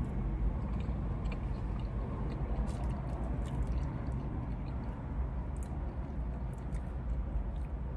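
A person chewing soft food (chili cheese fries) with small wet mouth clicks, over a steady low hum.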